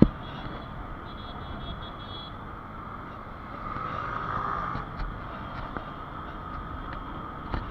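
Motor vehicle noise, steady throughout, with a sharp click at the start, a run of short high beeps in the first couple of seconds, and a brief swell about halfway through.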